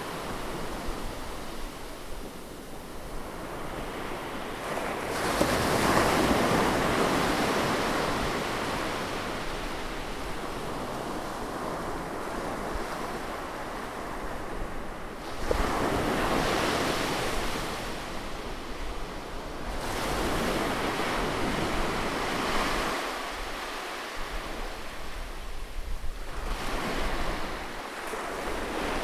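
Sea waves breaking close up on a shore: three big surges of surf, roughly seven to ten seconds apart, each washing back into a softer hiss before the next.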